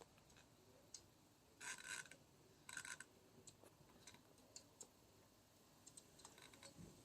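Faint, irregular light taps and clicks from a squirrel at the door, with two short scratchy bursts about two and three seconds in.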